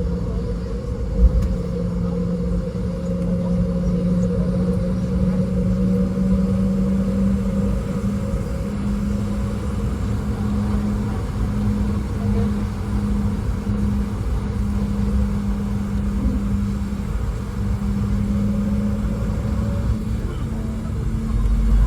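Boeing 717's twin Rolls-Royce BR715 turbofans heard from inside the cabin, a steady engine hum over low rumble while the jet taxis, with a short knock about a second in. Near the end the hum climbs and grows louder as takeoff thrust is applied.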